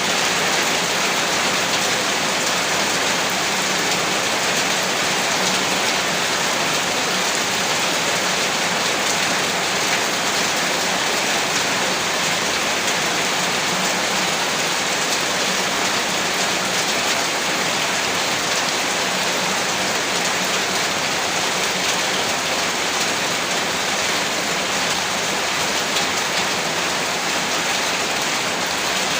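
Heavy rain falling steadily, a dense even hiss of drops striking surfaces, with no thunder or change in intensity.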